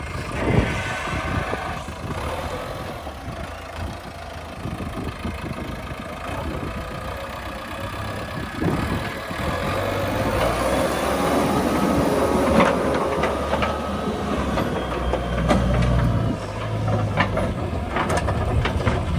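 Heavy diesel vehicle engine running, picking up revs about ten seconds in, with a few sharp knocks later on.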